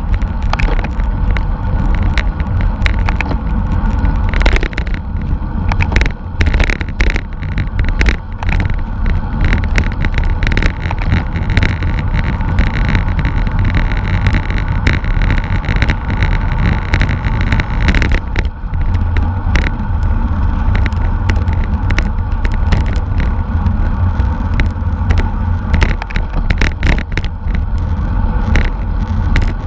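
Racing bicycle at speed, heard as a steady heavy rumble of wind on the microphone with road noise. Frequent sharp clicks and rattles come through over it.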